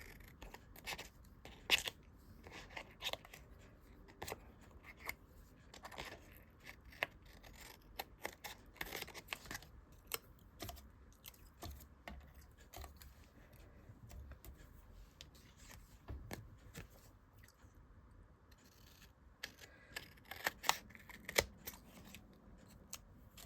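Scissors opening and closing over and over in a series of short sharp snips and clicks, with a quieter stretch about two-thirds of the way through; the blades are gummed with liquid glue and being cleaned.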